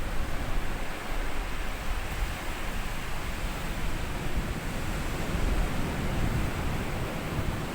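Small sea waves washing up onto a sandy beach, a continuous wash of surf that swells a little about five seconds in.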